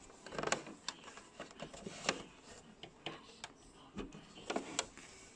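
Irregular clicks and light knocks, about seven in all and unevenly spaced, with faint rustling, from hands working fabric at a basic sewing machine; there is no steady stitching rhythm.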